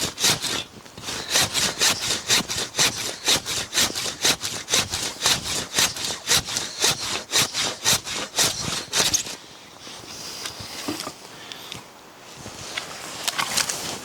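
Hand saw cutting through wood in quick, even strokes, about three to four a second, stopping about nine seconds in. A few softer scrapes and knocks follow near the end.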